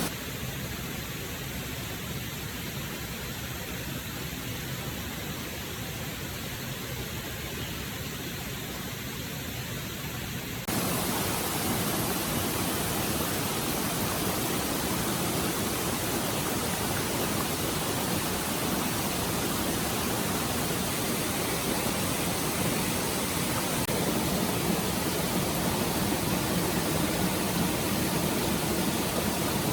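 Steady rushing of a forest stream. About eleven seconds in it cuts abruptly to a louder, fuller rush of water.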